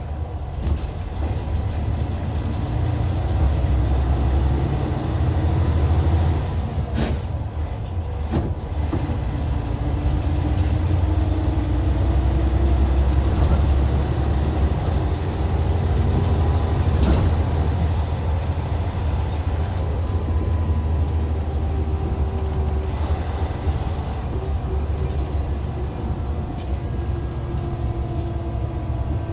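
Hyundai Universe Comfort coach's D6CC Powertec 380 six-cylinder diesel engine running under way, a deep steady drone with a faint engine whine that slowly shifts in pitch. Two short knocks come about seven and eight and a half seconds in.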